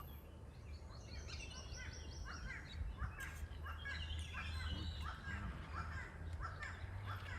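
Birds calling outdoors: a run of short rising notes, about two a second, over a low steady hum.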